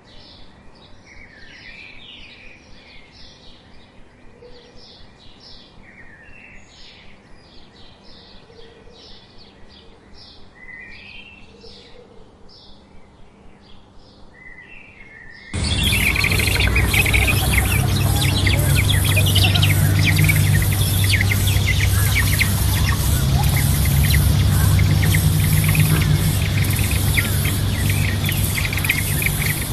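Small birds chirping in quick, evenly repeated high notes, with a few lower slurred calls. About halfway through, the sound cuts abruptly to a much louder, dense, shrill insect chorus over a steady low hum.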